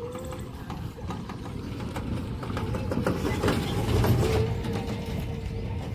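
A motor vehicle's engine running close by, its low rumble growing louder toward the middle.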